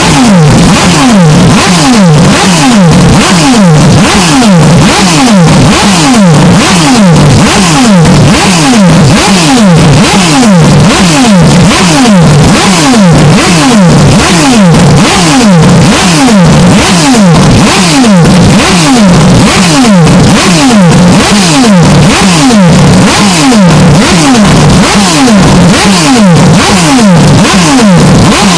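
Racing-car engine sound, heavily distorted and clipped, with a falling pitch sweep that repeats about one and a half times a second throughout.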